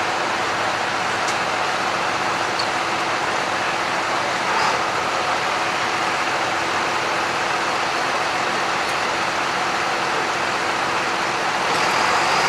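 Farm tractor engine running steadily, an unbroken drone that holds the same level throughout.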